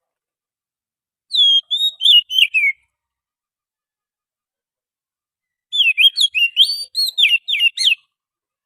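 Oriental magpie-robin (kacer) singing: a short phrase of quick, varied whistled notes about a second in, then a longer, busier phrase about six seconds in, with silence between.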